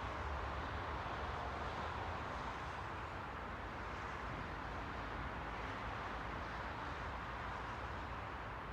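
Steady rushing noise ambience: an even hiss centred in the middle range over a low rumble, with no separate events.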